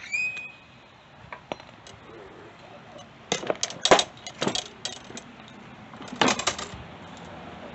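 Loose metal hardware and tools clinking and clattering in two short flurries, the louder one about four seconds in, as mower-engine mounting parts are handled. A brief high squeak comes right at the start.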